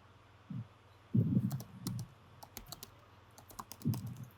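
Computer keyboard typing: a scatter of quick key clicks, with a few louder, low, muffled sounds in between.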